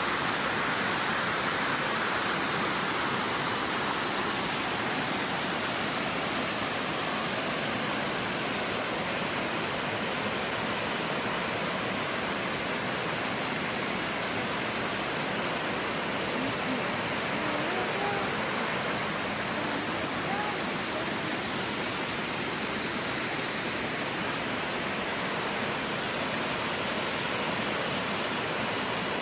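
Steady rush of water from a three-tiered cascading waterfall.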